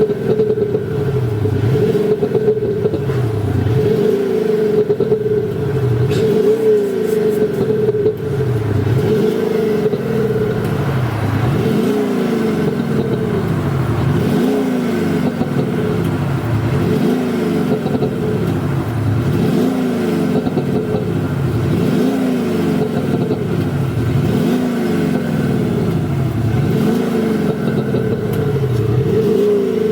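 Mercedes-Benz A220 diesel with an Automotive 7.0 active sound exhaust: the speaker-driven synthetic exhaust note follows the engine as it is revved over and over. Each rev rises and falls in pitch about every second and a half to two seconds, over a steady hum.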